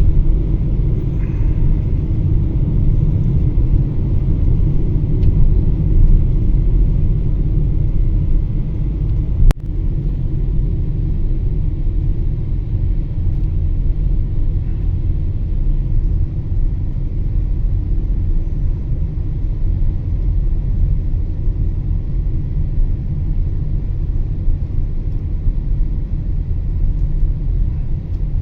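Wind in a snowstorm buffeting a phone's microphone: a steady, loud low rumble, with one sharp click about nine and a half seconds in.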